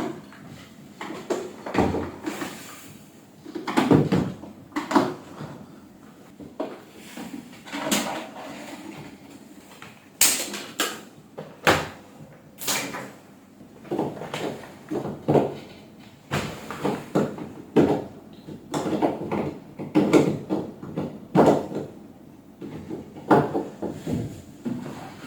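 Irregular clunks, knocks and sharp clicks, like hard parts or panels being handled and set down, several a few seconds apart and a couple of sharper clicks in the middle.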